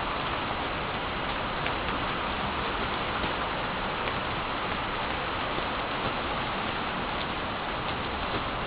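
Heavy thunderstorm rain pouring steadily, an even hiss with a few sharper drop ticks.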